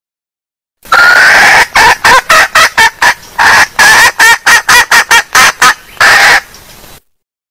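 Female red junglefowl calling: a longer opening note, then a fast series of short clucking notes, about four or five a second, and a closing longer note, then a sudden cut-off. It is a recorded lure call played loud to draw in junglefowl.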